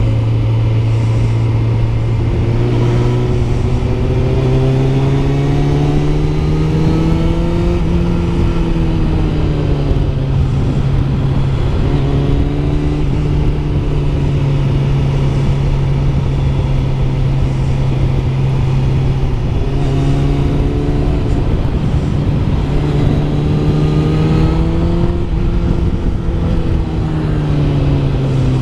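Kawasaki ZZR600 motorcycle's inline-four engine running while riding, heard over heavy wind noise. The engine note rises and falls gently twice with throttle and road speed.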